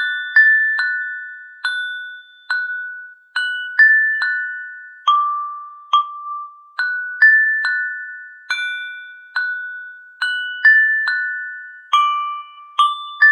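Background music: a slow, gentle melody of single bell-like mallet notes, glockenspiel-like, each struck and left to ring and fade, about one to two notes a second.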